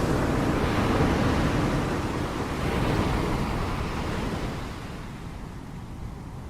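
Ocean surf: a wave crashing and washing in, loudest over the first few seconds, then fading away near the end.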